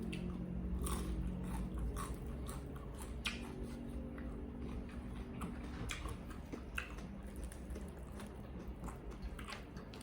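A person biting and chewing crispy fried chicken close to the microphone, with irregular crunchy bites and wet chewing.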